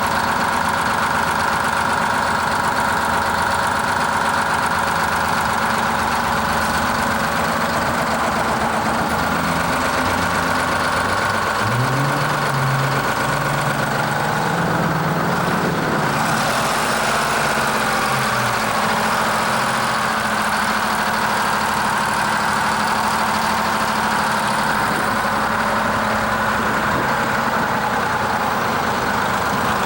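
Large engine idling steadily, with a second low engine note that comes in about twelve seconds in, wavers in pitch for several seconds and then fades back.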